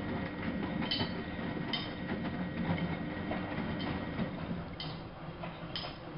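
Miele Novo Super W933 washing machine running, with a steady low rumble and a short click repeating roughly once a second.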